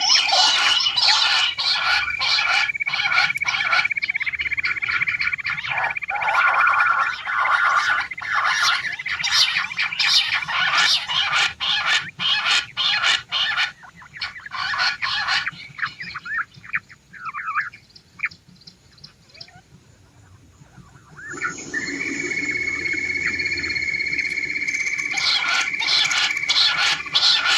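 Quail (batair) calling, played as a female-quail hunting lure: fast, dense runs of short repeated notes over a steady high-pitched tone. About halfway through the calls thin out to a few scattered notes and a quieter stretch, then the tone and the rapid calling come back near the end.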